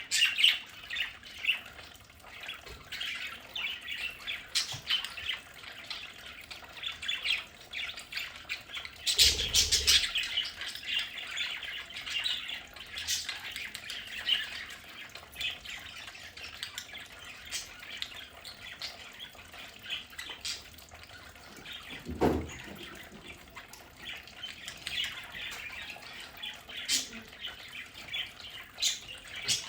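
A flock of budgerigars chirping, warbling and squawking, with a louder burst about nine seconds in and a sharp knock about twenty-two seconds in.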